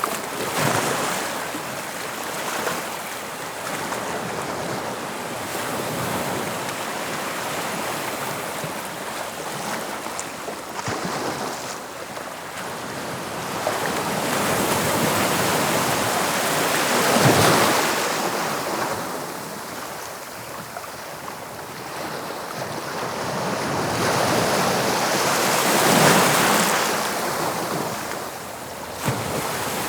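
English Channel sea waves washing in and breaking, a continuous surging wash that swells and ebbs, with two larger waves cresting, one about halfway through and one near the end.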